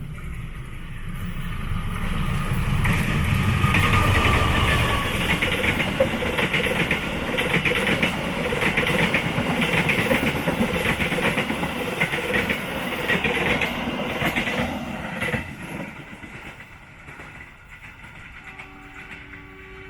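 A train passing close by: the rumble builds over the first few seconds, and the wheels clatter rhythmically over the rail joints. About three-quarters of the way through, the sound drops away quickly as the train clears.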